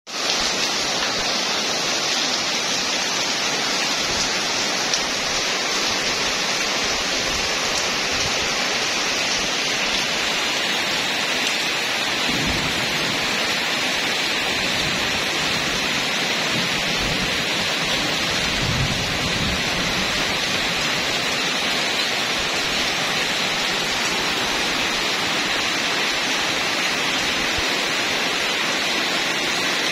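Steady rain falling, a constant even hiss. A low rumble comes in briefly about twelve seconds in and again around nineteen seconds.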